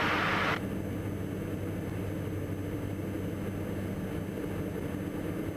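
Steady drone of a Diamond DA42 NG's twin Austro turbo-diesel engines and propellers in cruise, heard in the cockpit. A hiss cuts off about half a second in.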